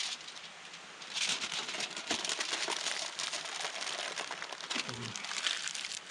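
Crinkling and crumpling of wrapping material handled by hand, in quick crackly bursts lasting about four seconds and starting about a second in, with a sharp click at the very start.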